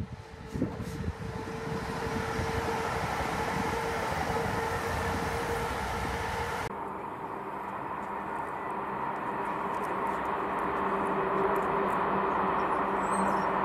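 A train approaching, its running noise growing steadily louder, with a steady hum beneath it. The higher hiss drops away abruptly about halfway through.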